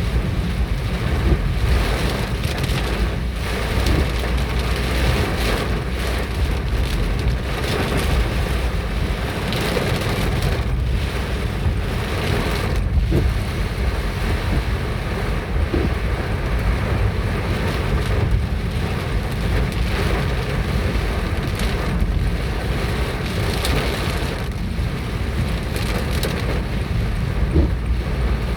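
Hail and rain pelting down in strong wind, with frequent sharp ticks of hailstones striking hard surfaces over a steady hiss. The wind makes a heavy rumble on the microphone.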